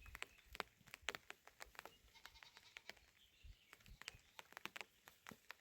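Goats bleating faintly, with many scattered light clicks and taps.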